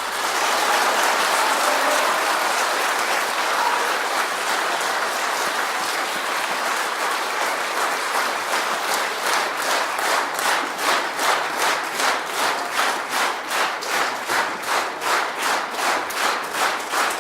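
Audience applauding in a concert hall; about halfway through, the clapping falls into rhythmic unison at about three claps a second.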